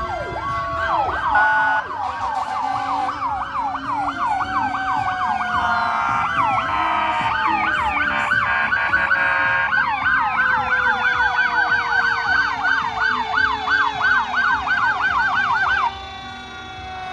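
Several fire truck sirens sounding at once: fast yelping sweeps over slower rising and falling wails, with a low tone gliding slowly down in pitch. The yelping stops abruptly near the end.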